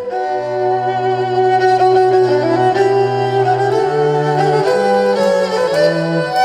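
Live band music led by a violin playing sustained melodic notes over a bass line that steps up in pitch about two-thirds of the way through.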